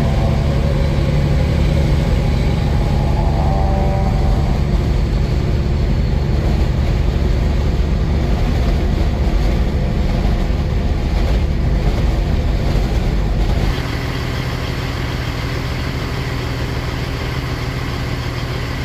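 Semi truck's diesel engine running with road noise. About 14 seconds in, the sound steps down to a quieter, steadier engine note.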